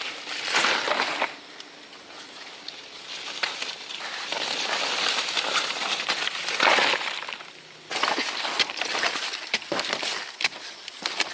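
Dry leaves and undergrowth rustling and crunching, in two stronger swishes, followed in the last few seconds by a run of sharp snaps and clicks like twigs cracking.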